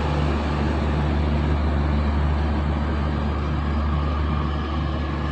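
Passenger train passing at a steady pace, a continuous low rumble of its coaches on the track that eases slightly near the end.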